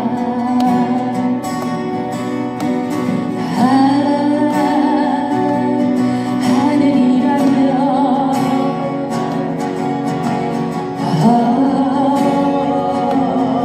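A Korean folk song sung live over strummed acoustic guitar, the voice holding long notes with vibrato.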